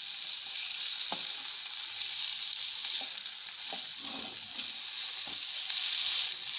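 Chicken seekh kebabs sizzling in a little oil in a nonstick pan: a steady frying hiss, with a few light clicks scattered through it.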